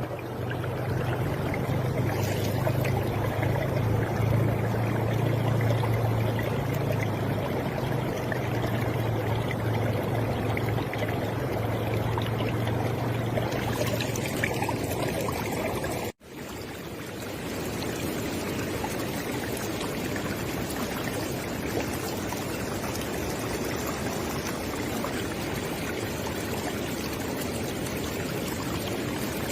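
River water flowing steadily, with a low rumble underneath for the first half. About halfway through the sound cuts out for an instant and resumes with a slightly different texture, a splice between recordings.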